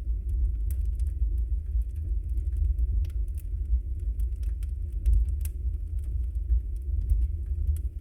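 Wood fire burning in a fireplace: a steady low rumble of the flames with frequent small crackles and pops from the burning logs, one sharper pop about five and a half seconds in.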